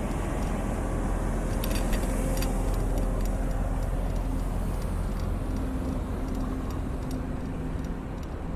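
Street sweeper's engine running steadily, with wind rumbling on the microphone. A few light clicks about two seconds in.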